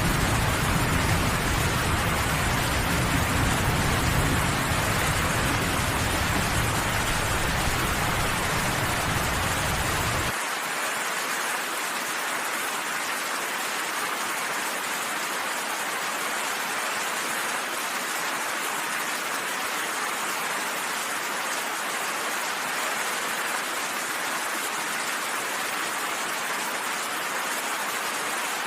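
Steady, heavy rain falling. A deep low rumble underneath it cuts off abruptly about ten seconds in, after which only the rain's hiss continues.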